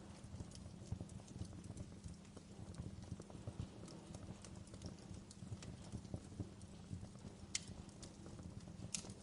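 Wood fire crackling and popping over a steady low rumble of the flames, with two louder pops in the last couple of seconds.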